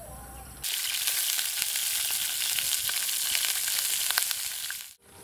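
Banana worms frying in hot oil in a metal wok: a loud, steady sizzle with many small crackles. It starts abruptly about a second in and cuts off just before the end.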